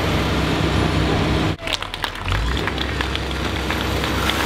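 A heavy demolition machine's engine running steadily. After an abrupt cut about a second and a half in, it runs on under a clatter of sharp cracks and knocks as the prefab's panels and debris are broken apart.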